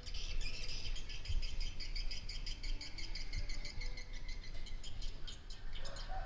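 High-pitched chirping repeated rapidly, many short pulses a second, over a low steady rumble.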